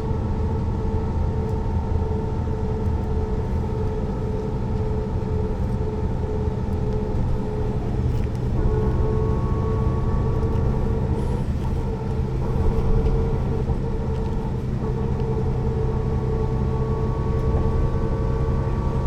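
Mercedes-Benz O 405 NÜ low-floor bus running, a steady diesel engine drone with a constant whine over it; the pitch of the whine shifts slightly about eight and a half seconds in.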